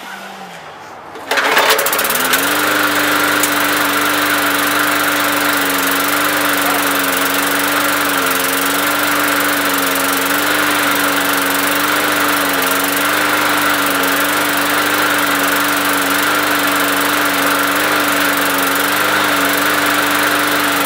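Push mower's small single-cylinder Briggs & Stratton engine starting about a second in, rising briefly in pitch, then settling into a steady run.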